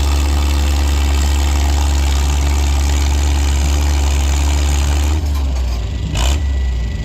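Antique farm tractor engine running steadily and loud under load while pulling, easing off about five seconds in, with a brief rushing noise shortly after.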